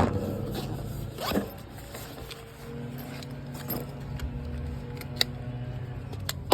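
A zipper being pulled and light handling noise from tools, with a sharp click about five seconds in, over a steady low hum.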